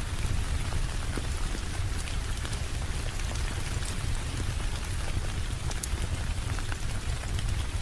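Steady rain falling, an even hiss with a deep low rumble underneath and scattered sharp little ticks of drops.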